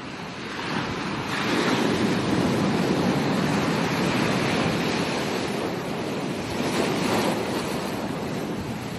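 Ocean waves breaking on a beach: surf builds about a second in into a long crash and wash, swells again briefly near seven seconds, then eases off.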